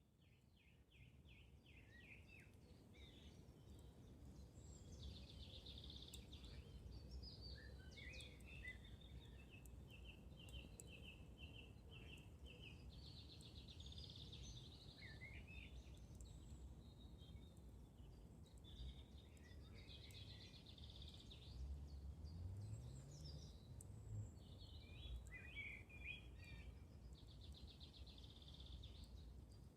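Songbirds singing faintly in woodland, with repeated trills and chirps throughout, over a low steady rumble. A few faint crackles from a wood campfire come through.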